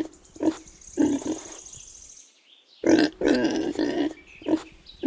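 Pig grunting in short runs: a few grunts in the first two seconds, then a quick series of grunts after a pause of about a second.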